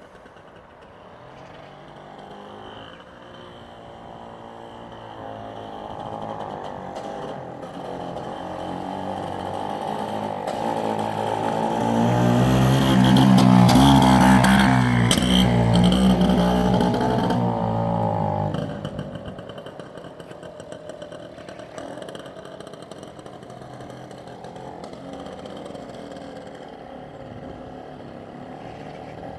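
BSA Bantam D1 125cc two-stroke single-cylinder engine running. It grows steadily louder to a peak in the middle, then drops back sharply about two-thirds of the way through and runs on quietly.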